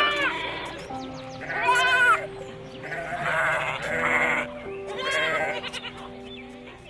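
Repeated quavering bleats from sheep or goats, one every second or two, over background music with long held notes.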